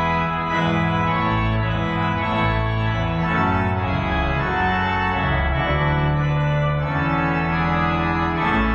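Organ music, held chords that change every second or two.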